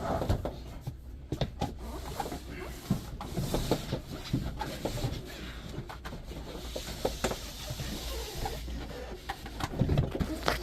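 Scattered knocks, bumps and scraping as a refrigerator is shifted and tilted by hand to fit it into its cabinet.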